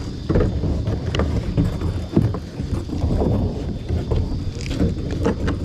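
Kayak being dragged over the ground: a continuous rough low rumble broken by irregular knocks and scrapes.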